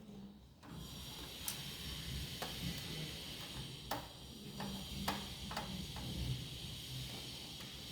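Screwdriver unscrewing the screws that hold a computer power supply in a metal case: irregular small clicks and ticks, several seconds apart at first and then closer together, over a faint steady hiss that comes in just under a second in.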